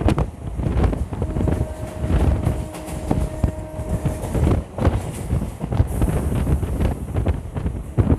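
Wind buffeting the microphone from the open side of a moving electric multiple-unit suburban train, over the rumble and clatter of its wheels on the track. A faint steady whine comes in about a second in and drops out after about four seconds.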